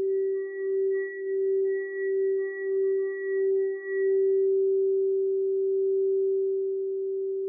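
Singing bowl sustaining one steady low tone that wavers in loudness about one and a half times a second, then settles into an even hum about halfway through as its higher overtones die away.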